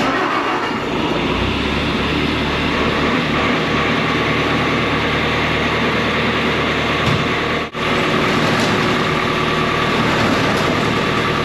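Diesel engine running steadily at a loud, even level, with a brief dropout about two-thirds of the way through.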